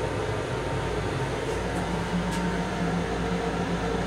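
Steady hum and rumble of an MTA Long Island Rail Road M7 electric railcar heard inside its small restroom, with a low hum that grows stronger about one and a half seconds in.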